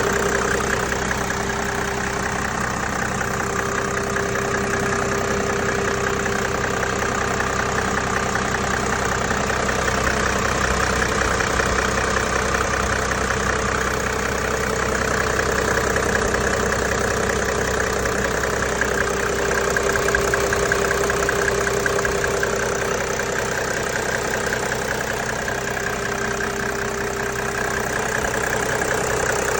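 Mercedes-Benz E300 engine idling steadily while still cold, shortly after a cold start.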